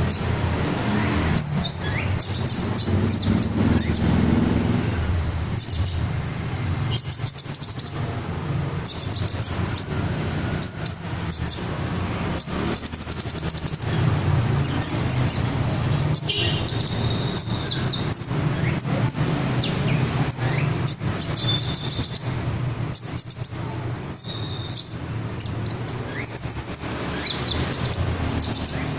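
A red-chested sunbird singing: quick series of high, thin chirps and rapid trills in short phrases, repeated throughout, over a steady low hum.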